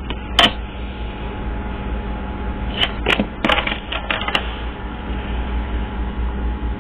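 A deck of reading cards being handled: one sharp click about half a second in, then a quick run of clicks and snaps from about three to four and a half seconds in, over a steady low hum.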